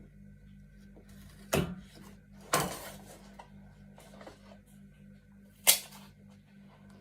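Hard objects being handled: three sharp clacks, the middle one rattling on briefly, over a steady low hum.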